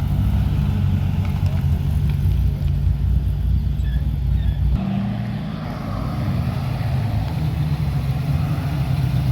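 Car engine running steadily at low revs, with a low rumble; the engine note changes abruptly about five seconds in, as a different engine takes over.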